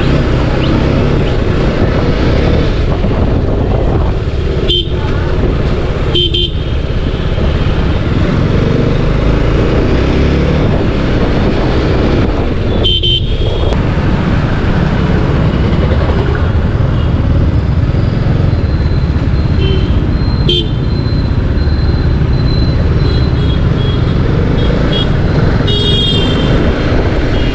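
Motorcycle riding along a road in traffic: a steady rush of engine and wind noise, with vehicle horns tooting a few times.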